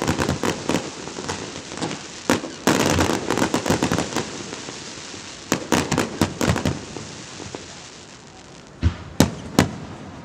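Aerial fireworks going off in rapid volleys of bangs and crackles. They thin out towards the end to a few single loud bangs.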